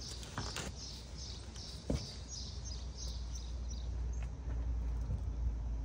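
A small bird chirping over and over, about three short high chirps a second, fading out about four seconds in, over a low rumble of wind or traffic that swells near the end. A single sharp knock comes about two seconds in.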